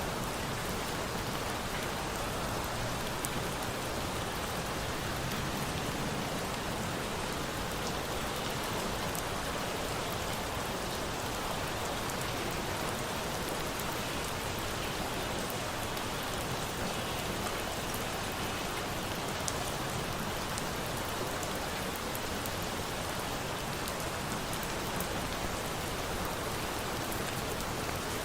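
Steady rain falling, an even hiss of drops with a few faint ticks scattered through it.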